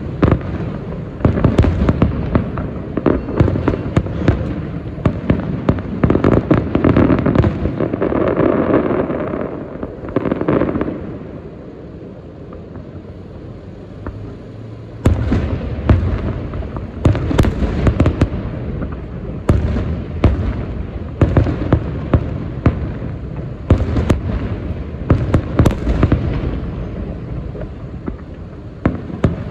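Aerial firework shells bursting in rapid volleys, many sharp booms with echoing rumble. The bangs ease off into a quieter spell about eleven seconds in, then pick up again densely about fifteen seconds in.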